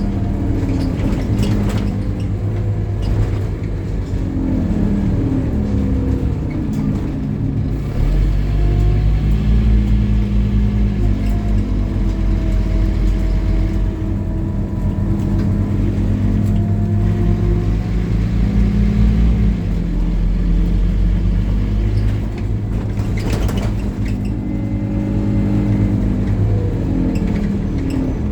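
Scania N270UD OmniCity bus's five-cylinder diesel engine running under load, getting louder as it pulls harder from about a third of the way in and easing off again later, its note shifting in pitch as the bus changes speed. A brief rattle or knock cuts in about two thirds of the way through.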